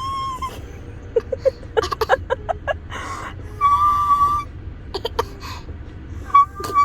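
Short, high whistle-like calls, each held steady for about half a second to a second, three times, with clicks and short chirps in between: sounds being mimicked.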